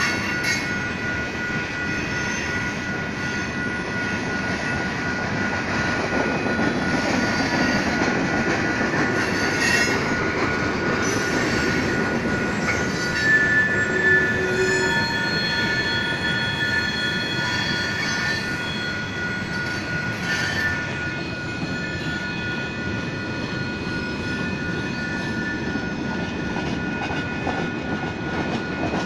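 Freight train cars rolling steadily through a grade crossing, with steel wheels squealing in high tones about halfway through. A steady, rapidly pulsing tone from the crossing's electronic warning bell rings over it throughout.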